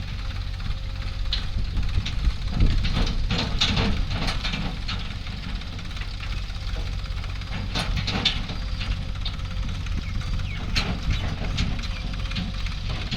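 Heavy diesel machinery running steadily with a low rumble, with scattered sharp clanks and knocks, clustered about three seconds in and again about eight seconds in.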